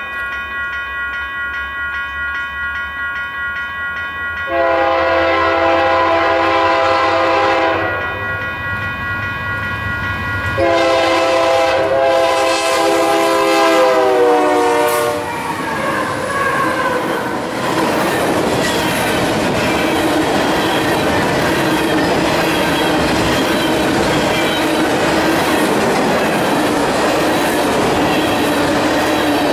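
Freight train's diesel locomotive sounding its air horn in two long blasts, the second one falling in pitch as the locomotive goes by. Then the steady rumble and clickety-clack of loaded covered hopper cars rolling past.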